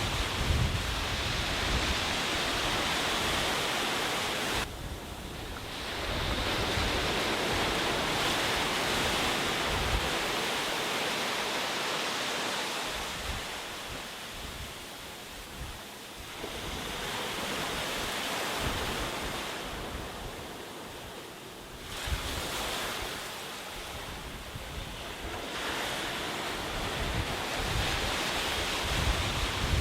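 Sea waves breaking and washing up a beach, the surf swelling and easing every few seconds, with wind buffeting the microphone at times, most near the start and the end.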